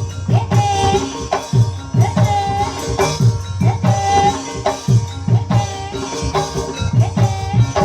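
Javanese ebeg (kuda kepang) dance accompaniment music: drum strokes in a steady rhythm, many dropping in pitch, under a wavering melodic line.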